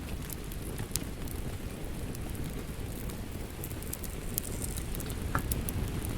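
Wood fire crackling with scattered sharp pops over a steady rumble of rain, one louder crack a little after five seconds in.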